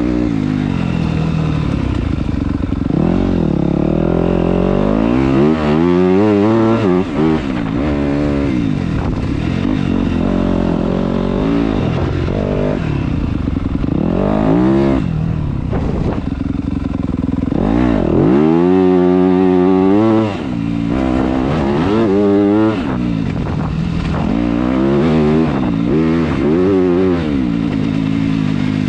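Yamaha YZ250F four-stroke dirt bike engine ridden hard through a wooded trail, the revs climbing and falling over and over as the throttle opens and closes through shifts and turns.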